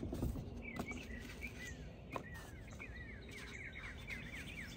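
A songbird singing: short downward-sliding chirps, quickening into a fast run of them in the second half. A few faint clicks are heard along with it.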